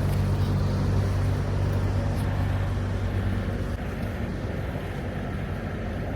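Steady drone of a semi truck's engine and road noise heard from inside the cab, easing off slightly toward the end.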